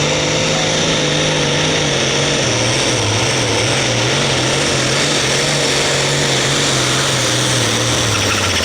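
Case International 8920 super stock pulling tractor's engine running flat out under load during a pull, a steady loud note with a high whine over it. The engine note sags a little late on and the engine backs off at the very end as the run finishes.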